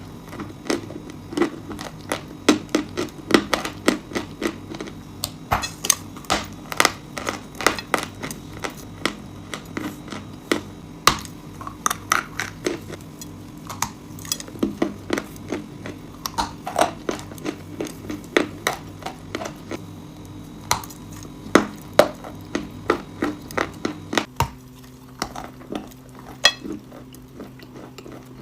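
Close-miked crunching of hard chalk and clay pieces in rapid, irregular sharp cracks and crackles, with a steady low hum underneath that shifts about 24 seconds in.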